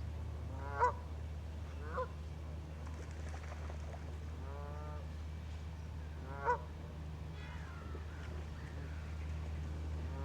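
Geese honking: single loud honks about a second in, at two seconds and at six and a half seconds, a quick run of calls around the middle and more near the end, over a steady low rumble.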